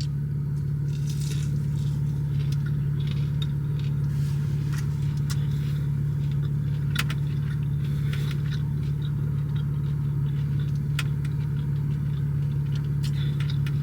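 Steady low hum of an idling car heard from inside the cabin, with scattered light clicks and rustles.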